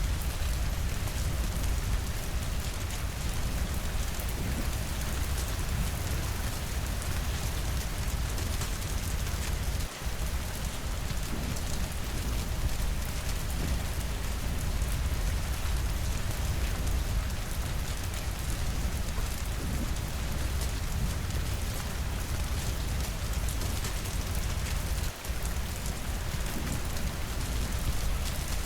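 Steady rain falling, a dense even hiss with a deep low rumble underneath. It dips for an instant twice.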